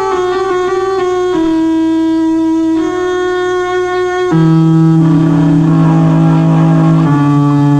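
Dungeon synth music: synthesizer notes with a woodwind-like tone play a slow line of held notes. About four seconds in, a louder low sustained note enters under a hissy noise layer.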